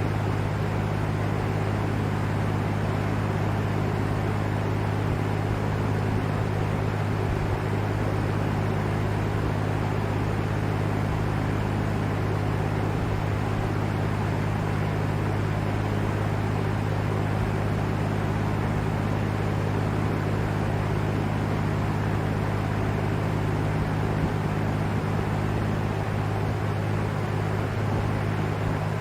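Vintage LAU Ultra Twenty 20-inch box fan running steadily: a low motor hum under an even rush of moving air.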